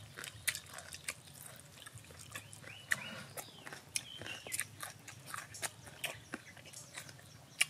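Close, irregular mouth clicks and wet chewing of people eating boiled beef tail with their hands.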